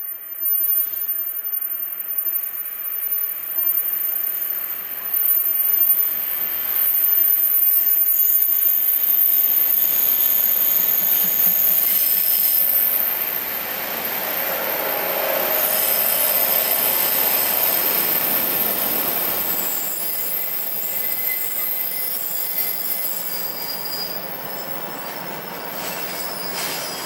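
Train running past at close range, with high-pitched wheel squeal from the rails over several seconds in the middle.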